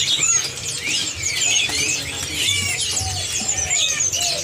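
A dense chorus of many caged songbirds chirping and whistling over one another, with short rising and falling notes that never let up.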